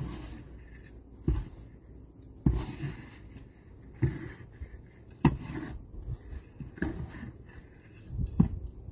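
Snow shovel working through deep snow: a crunching thrust followed by a short scrape, repeated about every second and a half, seven strokes in all.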